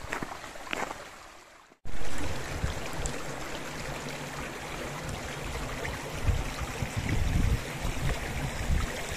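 Footsteps fading out, then after a sudden cut the steady rush of a mountain stream, with low wind rumble on the microphone growing toward the end.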